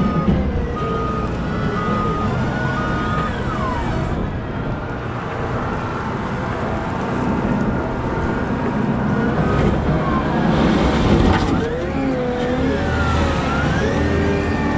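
Heavy diesel machinery at work, typical of a Cat 972M XE wheel loader: the engine runs loudly with whines that rise and fall in pitch as it revs. A reverse alarm beeps at an even pace for the first few seconds.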